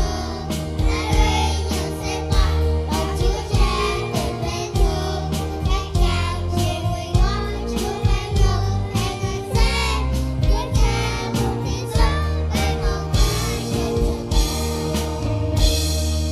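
Children singing a song together over an accompaniment with a steady beat.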